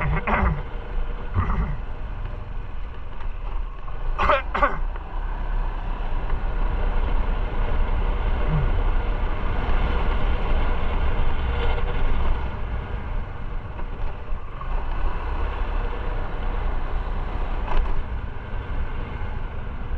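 Motorcycle engine running steadily while riding, with road and wind noise; it grows a little louder in the middle and eases off about twelve seconds in.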